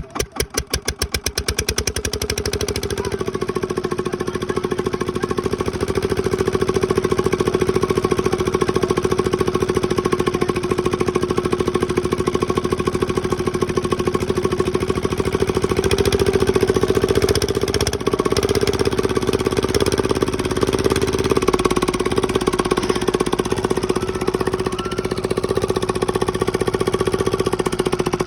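Diesel engine starting up: separate firing beats quicken over the first two seconds, then it runs steadily at speed.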